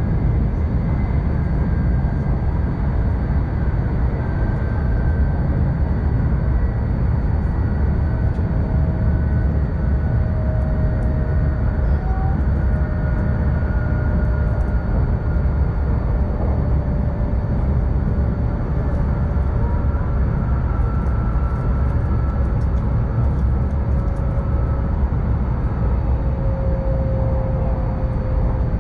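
Steady running noise inside a Tohoku Shinkansen car at speed: an even low rumble of wheels on rail, with faint high tones slowly drifting in pitch.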